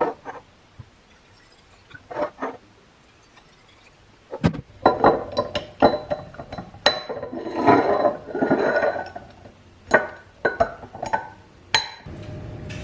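Glass containers clinking and knocking against each other and a hard surface as they are handled, with single sharp clinks at first, a busy run of clinking and rattling in the middle, and a few more clinks near the end.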